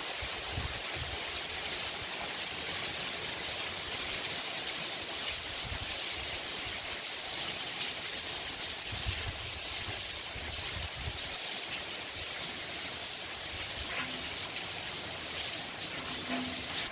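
Heavy rain pouring steadily, an even hiss with occasional low rumbles.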